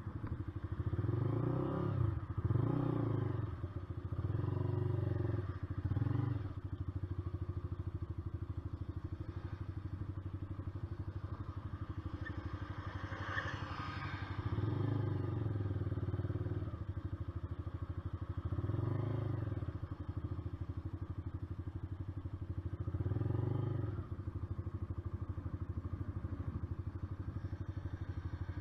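Honda CBR125R's single-cylinder four-stroke engine running continuously, its revs rising and falling about six times as the throttle is opened and closed.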